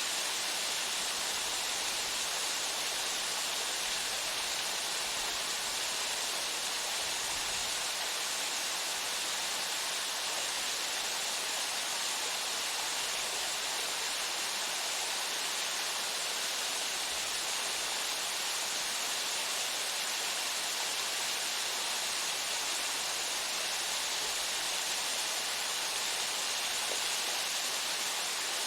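Waterfall pouring steadily: an even rushing hiss of falling water.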